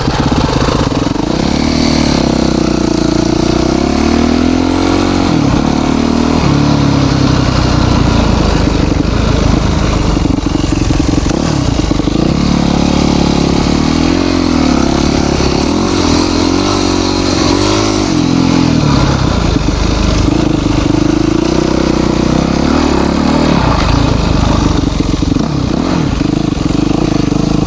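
Yamaha YZ450 dirt bike's single-cylinder four-stroke engine running on the trail, its pitch rising and falling over and over as the throttle is opened and rolled off.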